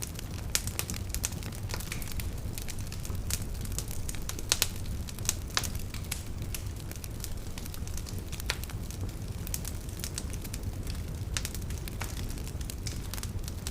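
Open fire crackling with irregular sharp pops, a few louder ones about four and a half to five and a half seconds in, over a steady low rumble.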